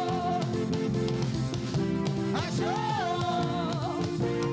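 Live gospel praise music: a band plays held chords under a lead singer's voice, which slides into a long note at the start and again about two and a half seconds in.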